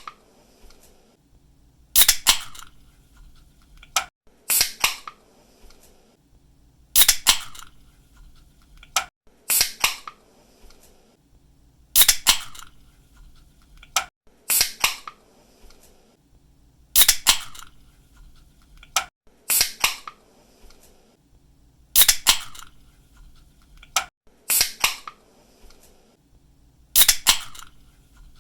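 Aluminium drink can cracked open over and over: each time a sharp snap of the pull tab, then a short fizzing hiss, about every two and a half seconds.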